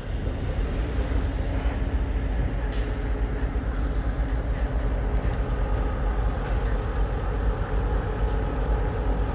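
Diesel freight locomotives running with a steady low engine rumble. A short burst of air hiss comes about three seconds in.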